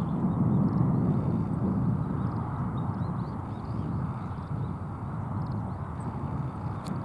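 Steady low rumble of riverside outdoor background noise, with faint, frequent high chirps of small birds over it and a couple of small clicks near the end.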